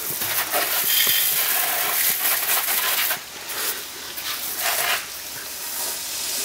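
Garden hose spraying water: a steady hiss that drops off about three seconds in, then comes back in shorter spurts.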